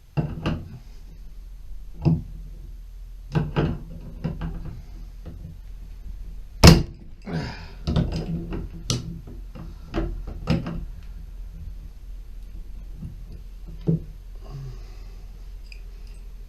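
Irregular knocks and clunks from tools and valve parts being handled during a shower-valve cartridge repair, about a dozen in all. The loudest is a sharp knock about halfway through, and the knocks thin out after that.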